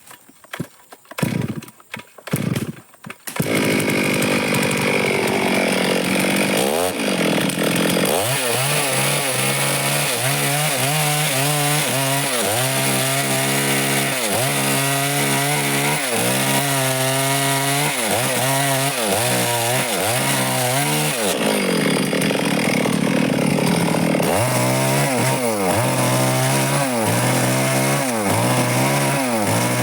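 A few sharp knocks, then a Stihl chainsaw comes in just over three seconds in and runs loudly as it cuts wood. Its engine pitch repeatedly drops and recovers as the chain bogs under load in the cut.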